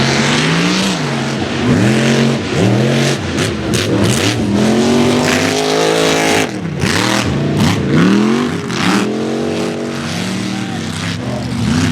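Mega mud truck's engine revving hard, its pitch swinging up and down about once a second as the throttle is worked in the mud pit, with sharp crackles in the middle of the run.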